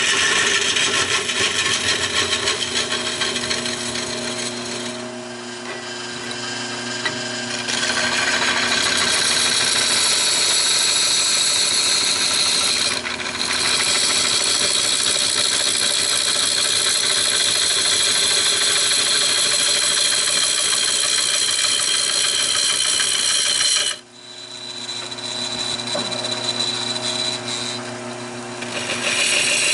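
Wood lathe running while a turning tool cuts into a spinning fatwood log: a steady scraping hiss over the motor's hum. The cutting eases off about five seconds in and picks up again around eight seconds. It stops abruptly about 24 seconds in, leaving the lathe humming on its own, and starts again near the end.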